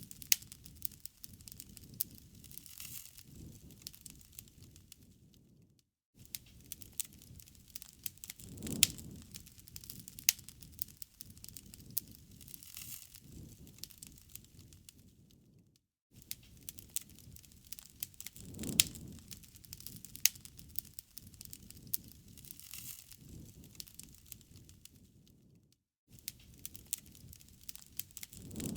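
Wood fire crackling and popping, with sharp snaps over a low rumble of flame that swells every ten seconds or so. The sound cuts out briefly three times, about ten seconds apart.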